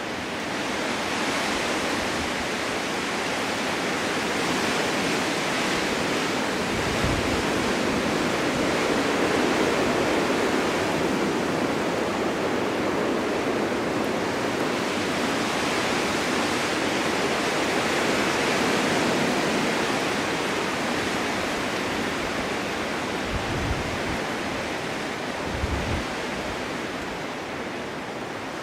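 Snowstorm wind blowing steadily, a rushing that swells and eases in slow gusts, with a few brief low thuds along the way.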